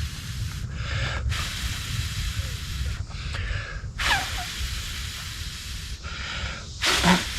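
A person blowing hard into the small kindling fire in a Dakota fire hole to bring the flame up. There are about three long blows, each a second and a half to two seconds, with short pauses for breath between them.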